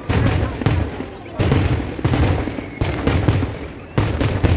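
A temple festival fireworks display (vedikettu): heavy explosions going off in quick succession, about seven in under five seconds, each leaving a rolling echo that barely dies before the next blast.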